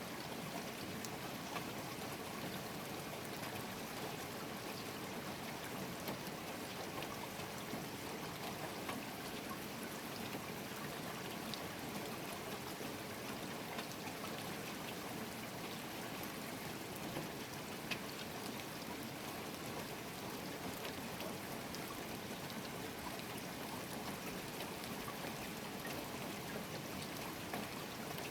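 Steady rain falling, with scattered sharp ticks of single drops striking close by; one tick about two-thirds of the way through stands out above the rest.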